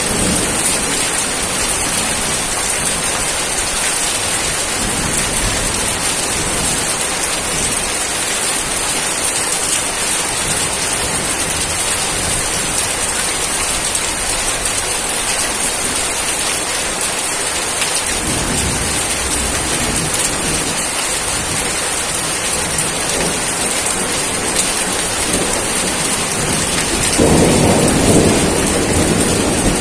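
Steady heavy rain falling on surfaces, with low rumbles of thunder swelling up about two-thirds of the way through and more loudly near the end.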